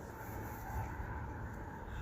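Steady low background rumble of a metro station platform, with no distinct event standing out.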